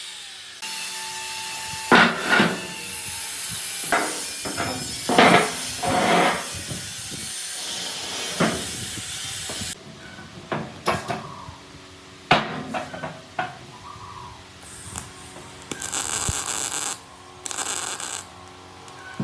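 Workshop tool work: sharp knocks and scraping over a steady noisy bed. About ten seconds in it changes abruptly to quieter scattered taps and short bursts of high hissing noise.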